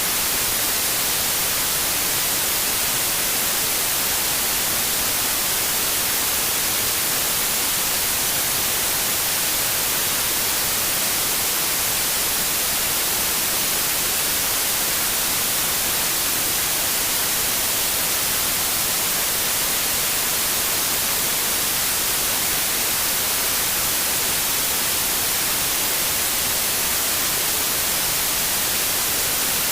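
Steady synthetic white noise: an even, unchanging hiss with most of its energy in the high frequencies.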